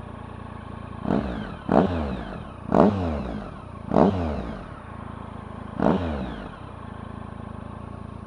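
2014 Triumph Tiger 1050 Sport's three-cylinder engine at idle through an aftermarket SC-Project exhaust, blipped five times: each throttle blip rises sharply in pitch and falls back to idle.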